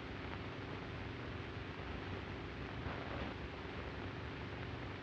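Steady hiss with a faint low hum: the background noise of a worn 16mm optical film soundtrack.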